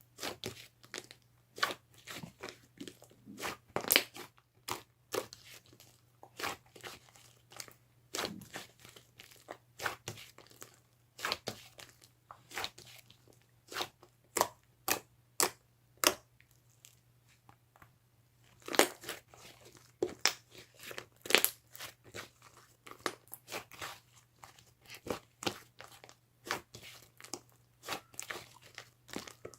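Irregular crisp crunching and crackling, a few sharp cracks a second in places, with a short lull past the middle, over a steady low hum.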